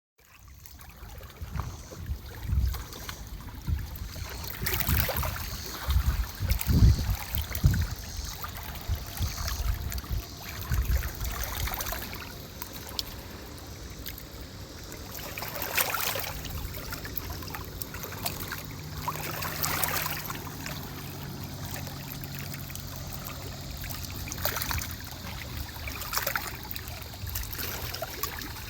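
Shallow water lapping and splashing unevenly, with occasional louder splashes. Low thumps on the microphone during the first several seconds.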